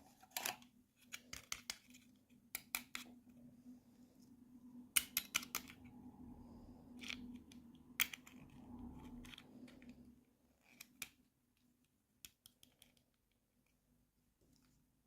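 Scattered clicks and taps of small plastic toy packaging and doll pieces being handled during an unboxing, in irregular clusters. A faint steady hum runs underneath and stops about ten seconds in.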